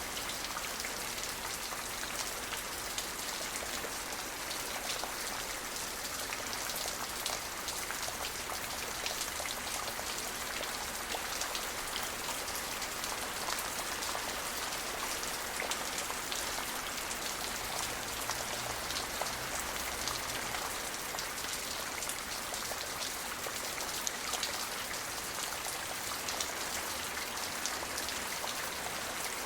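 Steady rain falling and pattering on surfaces, a dense even hiss with many fine drop ticks.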